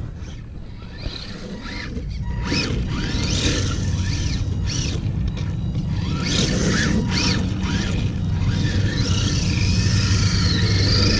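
Redcat Thunder Drift RC drift car's electric motor whining, repeatedly rising and falling in pitch as the car speeds up and slows, over a steady low rumble. The car gets louder in the second half, as if coming closer.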